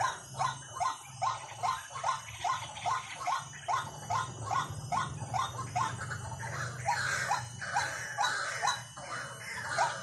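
White-breasted waterhen call played as a decoy: short, slightly rising notes repeated steadily, about three a second. A low steady hum runs underneath.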